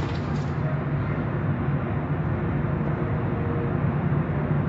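Steady mechanical rumble with a low hum, like a vehicle engine or machine running.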